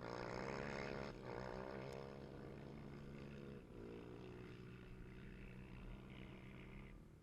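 Motorcycle engine running at a steady pitch after a rev, growing fainter and dropping away near the end.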